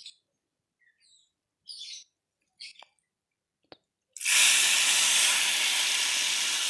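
Hot oil poured from a pan onto raw chopped chili sambal in a glass bowl, sizzling loudly as it hits the chilies from about four seconds in; the steady sizzle shows the oil is hot enough to flash-cook the raw sambal. Before it, a few short high chirps and a single click.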